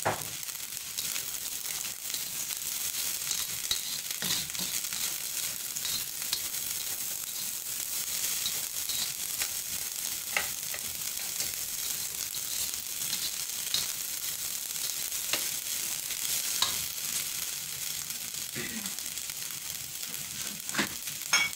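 Fried rice sizzling steadily in a hot wok while it is stirred and turned with a nylon slotted spatula, with now and then a sharper scrape or tap of the spatula against the pan.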